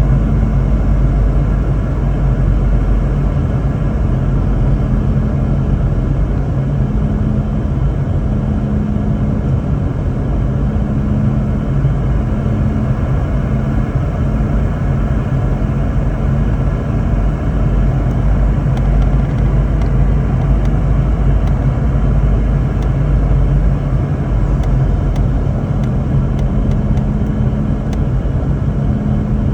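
Steady cabin noise of a Boeing 717-200 in flight: a loud low rumble of airflow and the rear-mounted Rolls-Royce BR715 turbofan engines, with a low engine hum that swells and fades. A few faint clicks come near the end.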